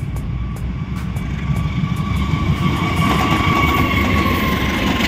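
A CC201 diesel-electric locomotive passes close by at the head of a passenger train, its rumble swelling as it goes past, followed by the coaches running on the rails. A steady whine rises through the middle, dips slightly and cuts off near the end.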